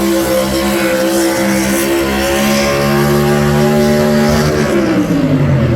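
Pulling truck's engine running at high revs under load while it drags the weighted sled, its pitch sagging slowly. About five seconds in the revs drop sharply as the driver lets off at the end of the pull.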